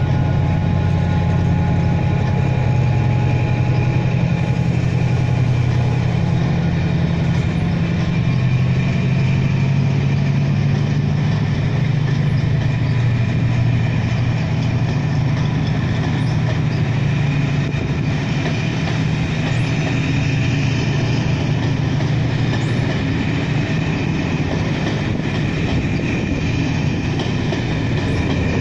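Class 68 diesel-electric locomotive's engine droning steadily as it pulls a train away, the drone fading over the first half. Meanwhile the Pullman coaches roll past, their wheels running over the track.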